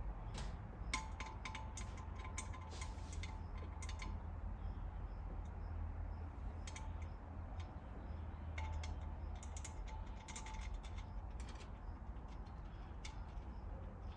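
Scattered light metallic clicks and taps as intake manifold bolts are handled and started by hand into a V6 engine's lower intake plenum, over a low steady hum.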